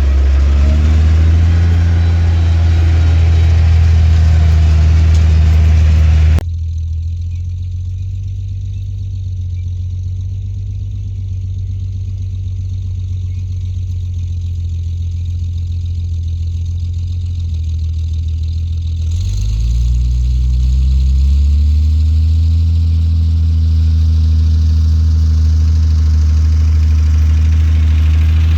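Farm machinery engine running steadily. About six seconds in, the sound abruptly turns duller. About two-thirds through, the engine speeds up and holds at the higher speed.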